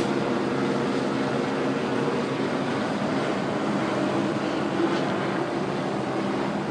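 Tow truck's engine running steadily as it moves slowly past, a constant low hum under road noise.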